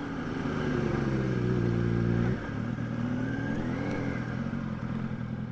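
A 2006 Kawasaki ZX-6R 636's inline-four engine pulling on the move, its pitch climbing slowly, then dropping suddenly about two seconds in, with a short rise and fall of revs a little later. Wind rushes over the microphone throughout, and the engine fades near the end.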